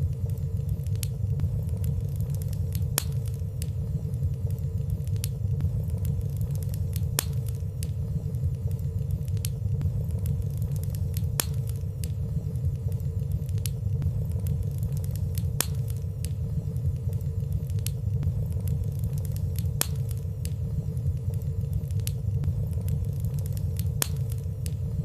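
Fire burning in a fireplace: a steady low rumble of flames with small crackles every second or two, over a faint steady hum.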